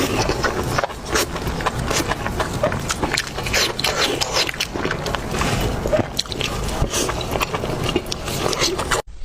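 Close-miked eating: steady chewing and biting with many irregular wet clicks and crunches, broken by a brief gap near the end.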